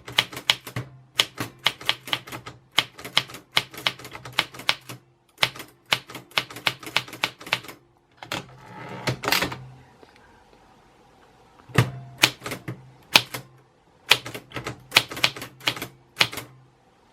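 Typewriter keys striking in quick runs with short pauses. About eight seconds in there is a longer sliding sweep, then a quiet stretch, a few single strikes and another fast run near the end.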